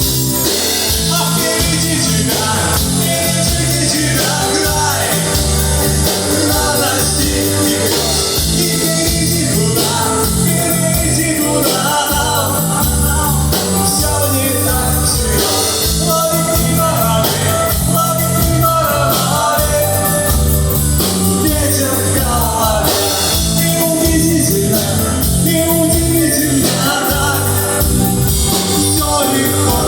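Rock band playing a song live, with a steady drum-and-bass beat under a melodic line.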